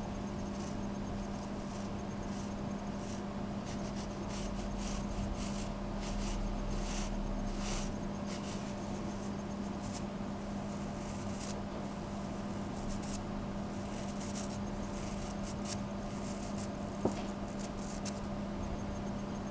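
Bristle brush rubbing and scrubbing in short, irregular scratchy strokes over a steady low hum, with one sharp tick near the end.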